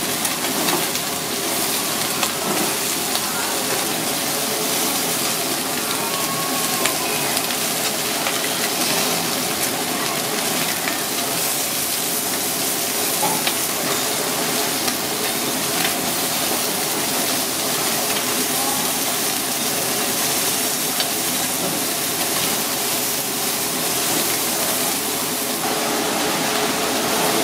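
Pieces of spanner crab sizzling steadily as they fry in oil in a nonstick frying pan, with faint ticks as they are turned with chopsticks.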